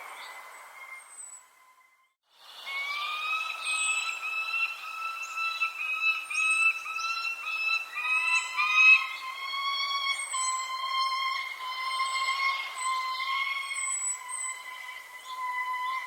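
Birds singing: short high chirps over a steady, warbling whistled tone, broken by a brief pause about two seconds in.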